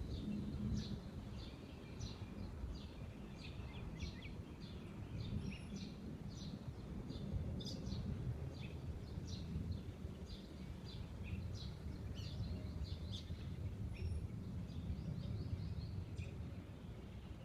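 Many small birds chirping and calling in quick, overlapping short notes, over a steady low background rumble.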